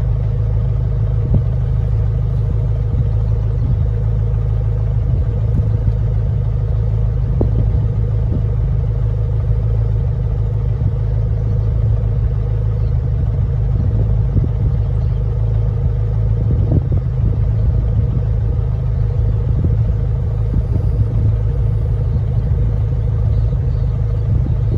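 Steady road and engine rumble of a car being driven, heard from inside the cabin: an even low drone with a faint steady hum over it and occasional light ticks.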